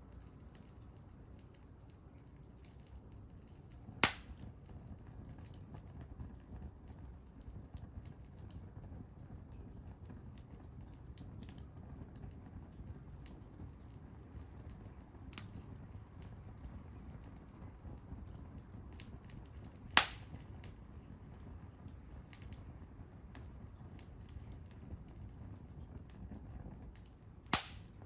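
Wood fire burning with a low rumble and faint scattered crackles, broken by three loud sharp pops: about four seconds in, about two-thirds of the way through, and near the end.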